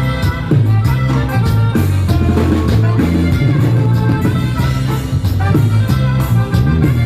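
Live norteño band playing a cumbia, with a strong bass line, regular drum beats and melody instruments over them.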